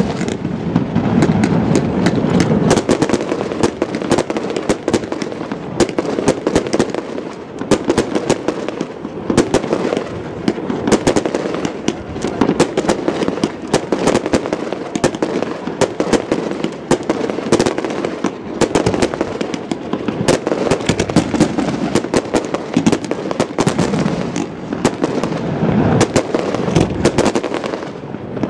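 Aerial firework shells bursting in a dense, continuous run of bangs and crackles, many reports a second throughout.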